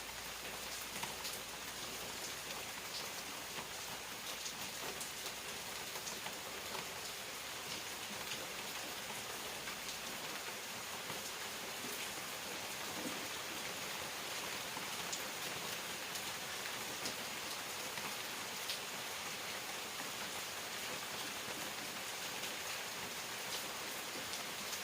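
Steady rain falling, a dense even hiss with scattered individual drops ticking on surfaces.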